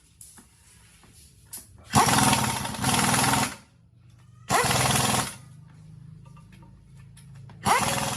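A power tool run in three short bursts: the first about a second and a half long, the next two under a second each. Every burst opens with a quick rising whine and carries a fast, even rattle. A few light clicks come before the first burst.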